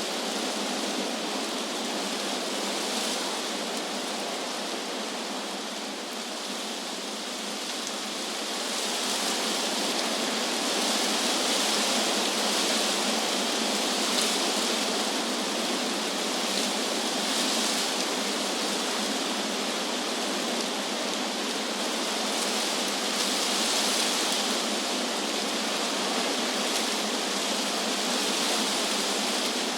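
Wind blowing through trees: a steady rushing of leaves that eases a little about six seconds in and swells again a few seconds later.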